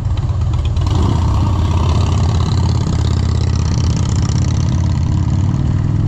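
Motorcycle engine idling steadily with a deep, even rumble.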